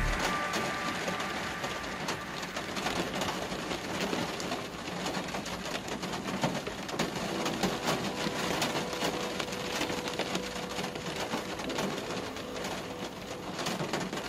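Rain hitting a moving car's roof and windscreen, heard from inside the cabin: a steady hiss thick with sharp drop ticks. A faint steady hum joins about five seconds in.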